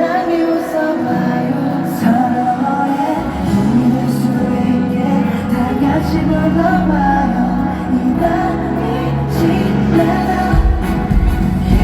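Live pop music with singing, amplified through a concert hall's sound system, with a deep bass line coming in about three seconds in.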